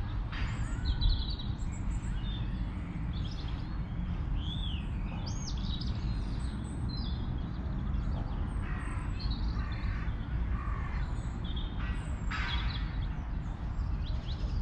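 Birds chirping and calling at intervals over a steady low outdoor rumble.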